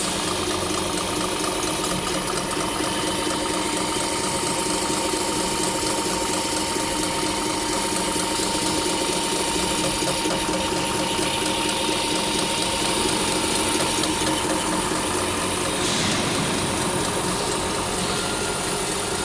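Homogenizer machine running steadily: a continuous mechanical hum with a steady whine over it, and a brief click near the end.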